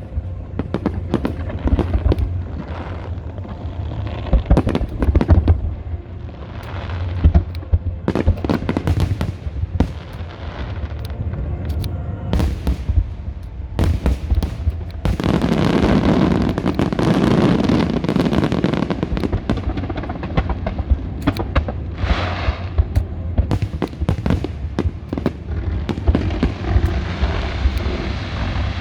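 Aerial fireworks going off in quick succession: a dense run of sharp bangs and booms over a continuous deep rumble, with a long loud stretch of crackling bursts about halfway through.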